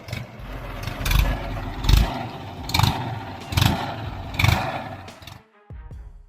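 Heavy machinery running, with a series of five heavy thuds about once a second. Music comes in near the end.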